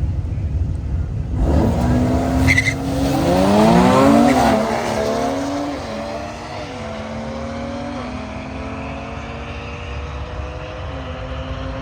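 A drag car launching hard about a second and a half in and accelerating down the strip. The engine note climbs and drops back at each of several upshifts.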